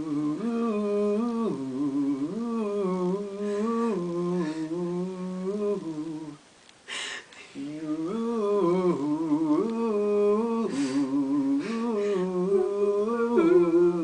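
A person humming a tune without words, moving in steps between held notes. The humming breaks off for a breath about six seconds in, then starts again.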